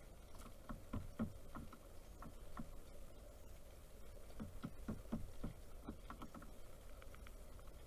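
Pileated woodpecker pecking at a feeder: irregular dull knocks. A loose run comes in the first few seconds and a quicker, denser run comes about halfway through.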